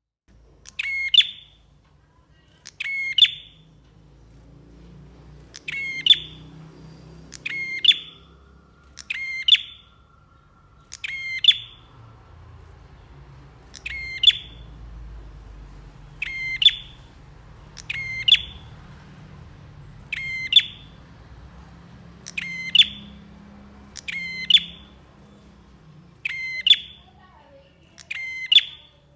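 Prinia (prenjak) calling: a short, sharp chattering call repeated about every two seconds, fourteen times.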